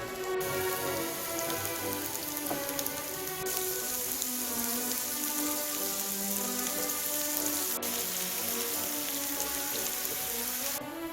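Pork belly sizzling on a hot cast-iron cauldron lid, a dense crackling hiss that changes abruptly twice and stops shortly before the end. Background music plays underneath.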